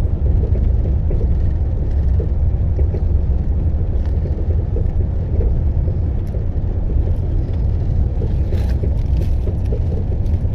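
Passenger train under way, heard from inside the carriage: a steady low rumble of the running train.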